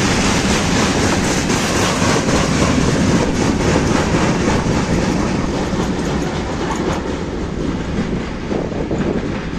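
A train running past close by, its wheels clacking rapidly over the rail joints; the noise gets gradually quieter toward the end as it moves away.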